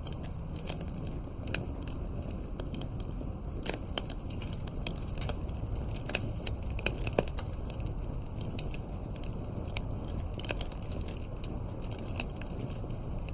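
Campfire burning: wood crackling and popping in sharp irregular snaps over a low steady rumble of flame.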